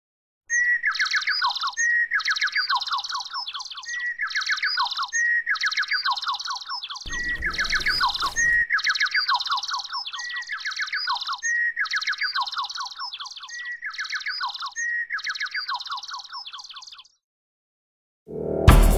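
Songbird singing the same short phrase over and over, about once a second: a clear note, then a quick falling trill. It stops shortly before the end. About halfway through, a noisy rush lasts a second and a half, and a loud sudden sound comes in at the very end.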